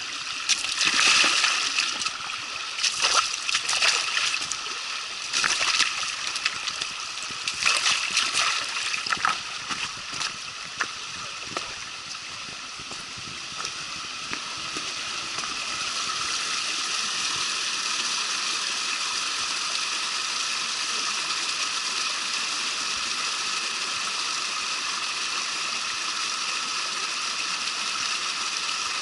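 Running water in a forest stream: irregular splashing and sloshing for the first dozen seconds or so, then a steady even rush of flowing water.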